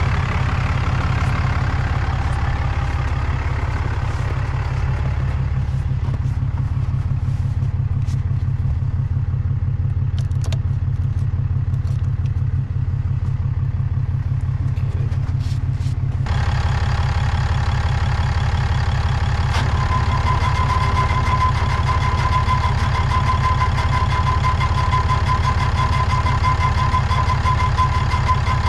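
Diesel engine running steadily with an even low pulse. It turns brighter suddenly about two-thirds of the way through, and a steady high whine joins soon after.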